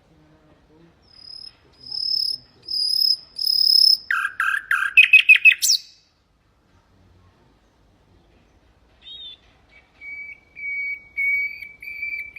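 Common nightingale singing: four drawn-out high whistled notes, then a fast rattling run of repeated notes, a pause of about three seconds, and a series of lower whistled notes growing louder toward the end.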